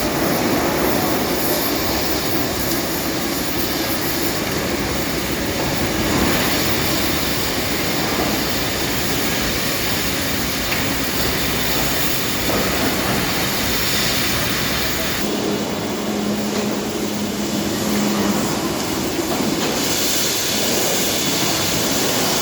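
Steel plant cutting machinery running: a continuous loud rumble and hiss whose texture shifts a few times, with a steady hum for about three seconds past the middle.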